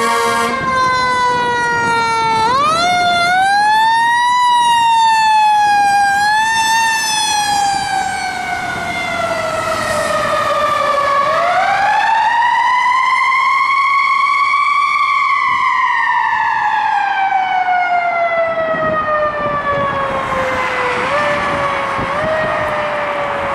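Fire apparatus siren wailing, its pitch swinging up and then gliding slowly down in long cycles. A rushing road noise builds near the end.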